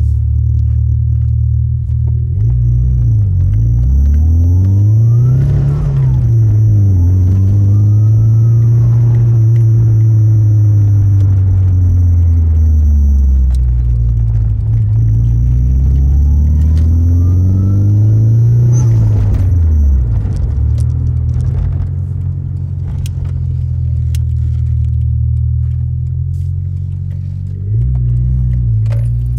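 A 1992 Nissan 240SX's turbocharged SR20DET engine revving up and down while driving. A siren-like whine rises and falls with the revs three times, then the engine runs more steadily. The owner suspects the turbo, with the turbine rubbing against its housing, although the shaft showed little play.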